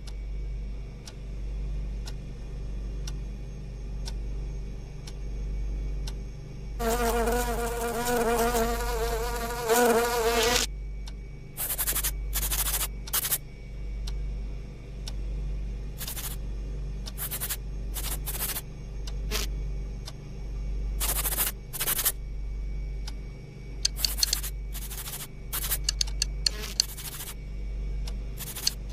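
Cartoon insect buzzing: a steady, low, pulsing hum of wings. From about 7 to 10 seconds in there is a wavering pitched tone, and many short, sharp hisses follow through the second half.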